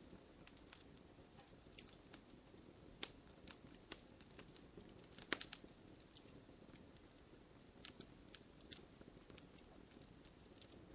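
Wood fire crackling in a fireplace, quiet: sparse, irregular pops and snaps over a faint low hiss, with a somewhat louder snap about five seconds in.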